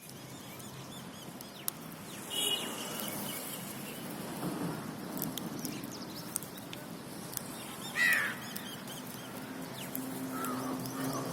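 Birds calling over a steady outdoor background: a few short, scattered calls and ticks, the loudest a brief call about eight seconds in.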